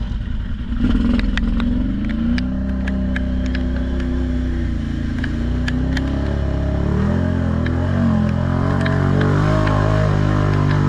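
ATV engine running under load, its pitch rising and falling with the throttle and growing louder about a second in, with scattered sharp clicks through the first half.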